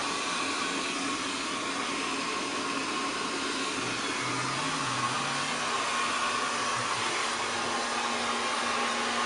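Hair dryer blowing steadily, a constant rush of air with a steady motor hum underneath.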